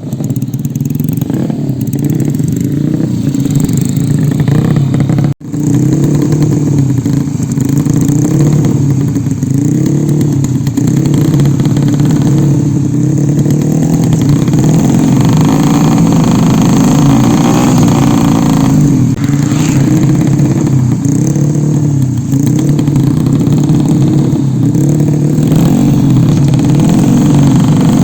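Tuned Yamaha Jupiter motorcycle engine revving hard and over and over, its pitch swinging up and down about once a second. The sound drops out briefly about five seconds in.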